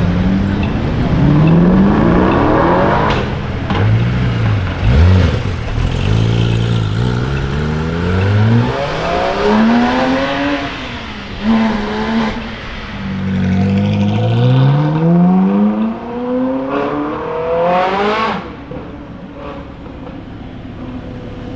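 High-performance car engines accelerating hard away from a standstill, the pitch climbing and dropping back again and again as they rev up and shift through the gears. The last and loudest climb comes near the end, after which the engine noise fades.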